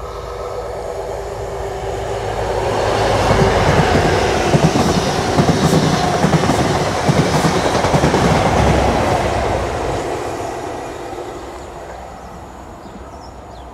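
Network Rail's New Measurement Train, an HST set with Class 43 diesel power cars, passing through the station. The rumble builds over about three seconds and stays loud for several seconds, with a rapid clatter of wheels over rail joints, then dies away as the train recedes.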